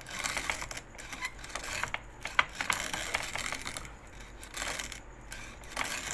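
Coffee beans crunching and crackling in a hand-cranked manual coffee grinder as the crank is turned: dense clicks that come in uneven surges.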